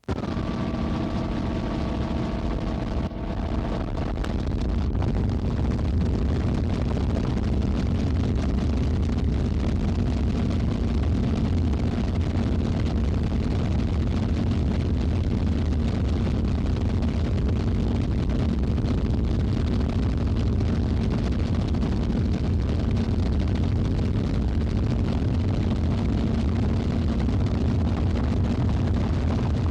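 A vehicle engine running steadily with a heavy low rumble. It starts abruptly, and a few higher whining tones fade out about four seconds in.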